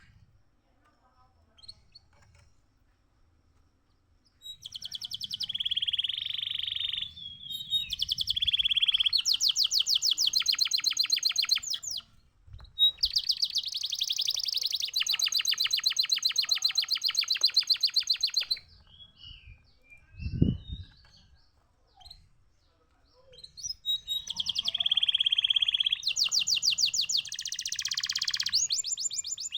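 Canary singing long, fast rolling trills in three phrases of several seconds each, with short pauses between them. A single low thump sounds in the middle pause.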